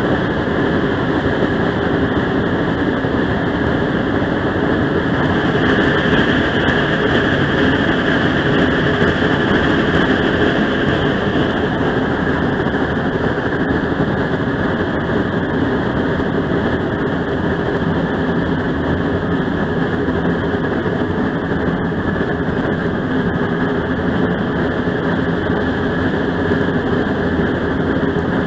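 Steady running noise of a train heard from aboard a passenger car rolling along the track: an even rumble and rattle that holds throughout.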